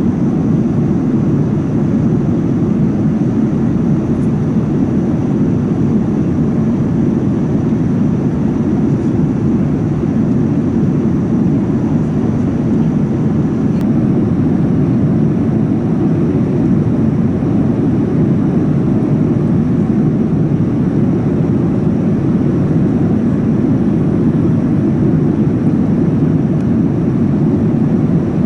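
Steady cabin noise of a Boeing 787-9 airliner in flight: an even rush of airflow and its GE GEnx-1B engines, heaviest in the low range, with a faint high whine running through it.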